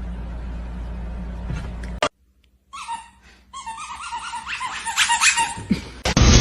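A small pet's rapid, high-pitched whimpering cries, several a second, growing louder over the last few seconds. Before them there is a steady low hum that breaks off suddenly about two seconds in.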